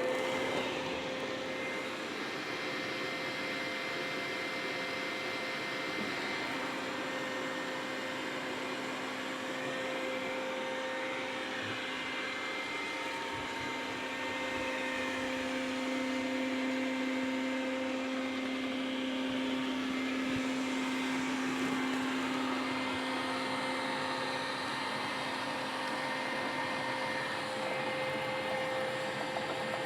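Dreame robot vacuum running a cleaning cycle: a steady motor whir with a high whine over it and a lower hum that grows stronger in the middle stretch.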